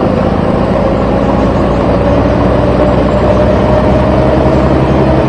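Truck engine running steadily, its pitch creeping up slightly.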